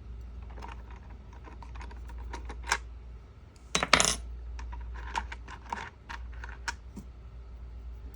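Small metal chainsaw parts clinking and clicking as they are handled, in irregular light taps with a louder cluster of clinks about four seconds in, over a steady low hum.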